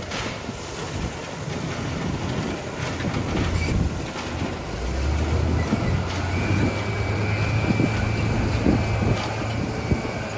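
Bulldozer at work on gravel: its diesel engine running under load, with clanking and rattling from the steel tracks. The engine note deepens and steadies about halfway through, and a thin whine joins soon after.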